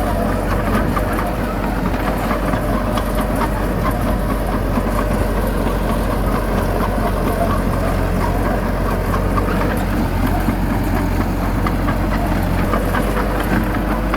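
Heavy diesel engine running steadily at an even pitch, with light clatter over it.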